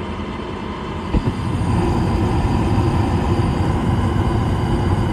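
York gas furnace's draft inducer fan running steadily. About a second in there is a click and soft thump as the burners light, then a steady, louder rush of burner flame.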